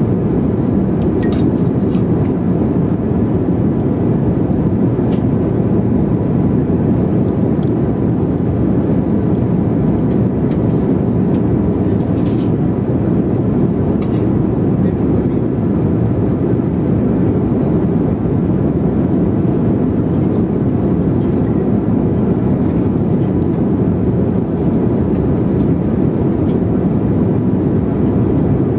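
Steady jet airliner cabin noise in flight: an even, unchanging low rumble and rush, with a few faint light clicks and clinks.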